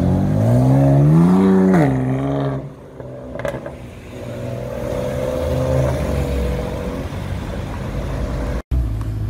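BMW M4's twin-turbo straight-six accelerating hard from a standstill, its pitch rising for about two seconds, then dropping at an upshift as it pulls away. Steady city traffic noise follows.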